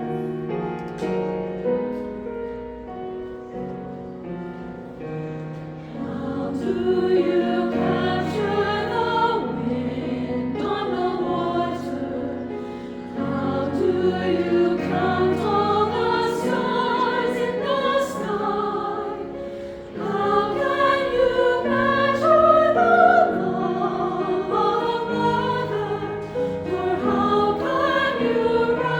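Choir singing; it starts softer and swells louder about six seconds in.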